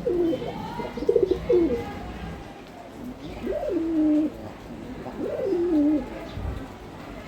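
Pigeons cooing: a run of short coos in the first two seconds, then two longer coos around the middle, each dropping in pitch and then holding. Faint high chirps of small birds sound behind them.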